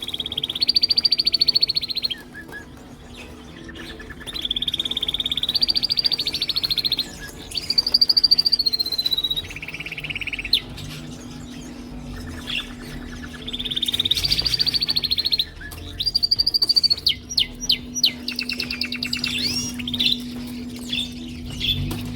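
Male canaries singing: long rolling trills of rapidly repeated notes, each a few seconds long with short pauses between, then a run of quick, varied chirps and whistles near the end. A steady low hum runs underneath.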